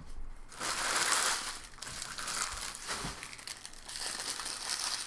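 Plastic wrapper of a trading-card pack crinkling as it is handled and opened. The sound is loudest just after the start and goes on more softly for a few seconds.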